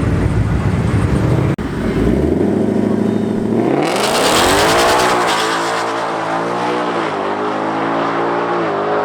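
Drag race car engine rumbling low, then about two seconds in revving up hard with its pitch climbing steeply as the car accelerates, before settling into a steady, high, sustained run with brief dips in pitch.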